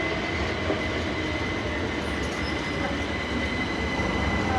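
Electrostar electric multiple unit running into the platform: a steady rumble of the train with a thin, steady high squeal over it.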